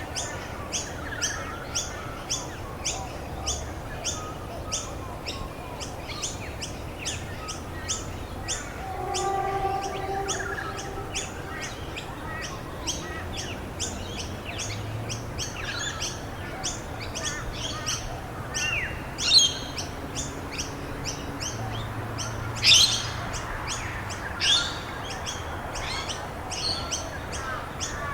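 Birds chirping: one bird repeats a short high chirp two or three times a second without a break, and a few louder, sharp sweeping calls stand out about two-thirds of the way through.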